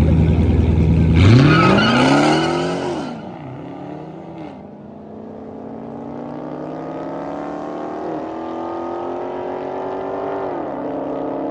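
Car engine idling, then launching hard about a second in with a loud rising rev. It pulls away and accelerates through several gear changes, each shift a drop in pitch followed by a slower climb, the sound fading after the launch.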